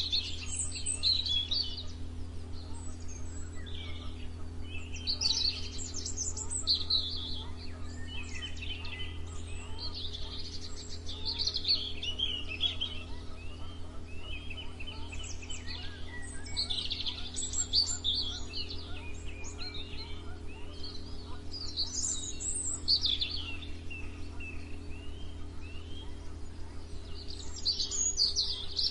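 Songbirds singing: bursts of high chirps and trills every few seconds, several overlapping. A steady low hum runs underneath.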